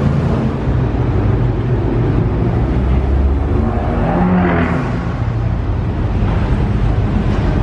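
Car engine running with a steady low drone, with a brief rise in pitch about four seconds in.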